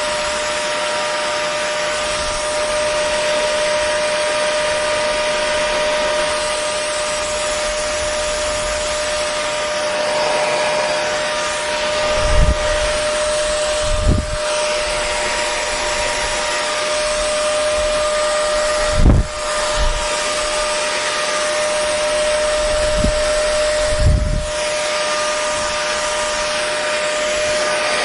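Hair dryer running steadily: a constant rush of air with a fixed motor whine. A handful of short, low thumps break in through the middle.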